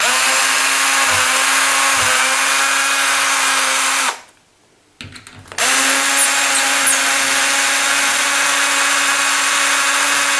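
Cordless power drill-driver running steadily as it backs out the fixing screws of a door handle. It runs for about four seconds, stops briefly, then starts again and keeps running.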